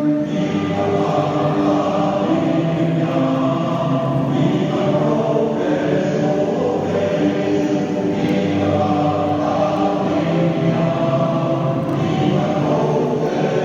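A large group of voices singing together like a choir, holding long notes that change every second or two.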